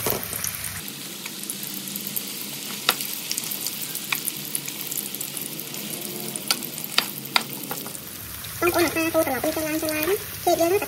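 Green banana pieces deep-frying in oil in a steel wok: a steady sizzle, with a few sharp clicks as a slotted metal spoon stirs them against the wok. Near the end a wavering pitched sound, like a voice, comes in over it.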